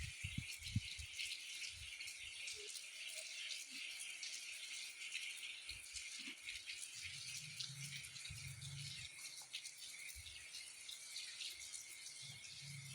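Steady rain: an even hiss with many small drips and ticks and a few light knocks, with short spells of a low hum from about halfway through.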